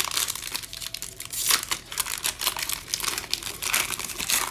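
Foil trading card pack wrapper being torn open and crinkled, a dense irregular crackle.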